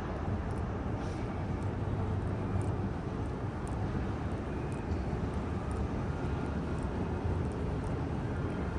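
Steady low rumble and hiss of vehicle noise, even throughout with no distinct events.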